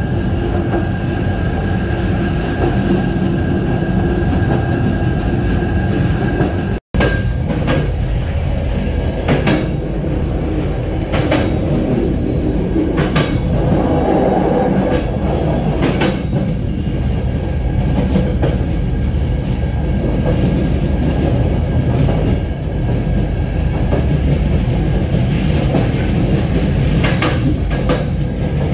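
Passenger train running along the track: a steady low rumble with clicks of the wheels over rail joints every second or two. The sound cuts out for an instant about seven seconds in.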